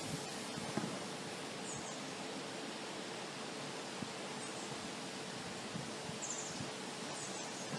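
Wind blowing outdoors, an even steady rushing hiss, with a few faint short high chirps scattered through it.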